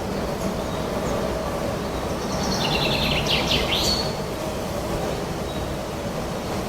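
Steady wind rushing through forest trees, with a songbird singing one quick phrase of rapid chirps and falling whistles from about two seconds in to about four seconds.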